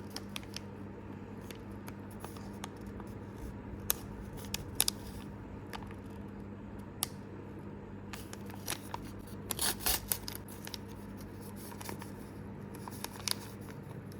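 Small plastic blind-bag packet being cut and opened, with scattered snips, crinkles and light clicks, briefly busier about four and ten seconds in.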